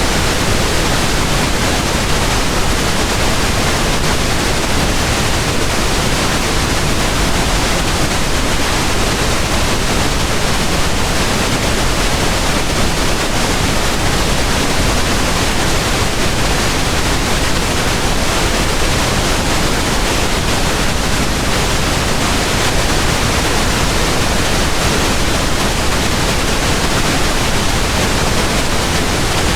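Steady pink noise: an even, unchanging hiss-like rush spread across the whole range of pitch, with no breaks or changes.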